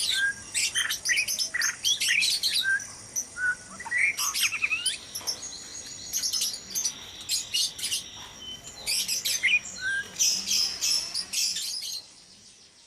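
White-rumped shamas (murai batu) calling in a breeding aviary: a busy run of short whistles, chirps and rapid high trills that stops suddenly near the end.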